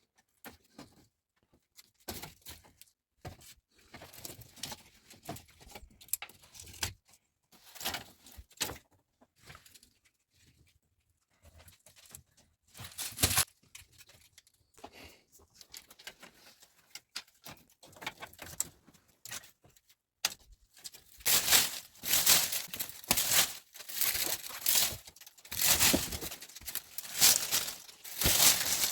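Scattered short rustling and crinkling handling sounds, becoming a dense, louder run of rustling strokes about twenty seconds in.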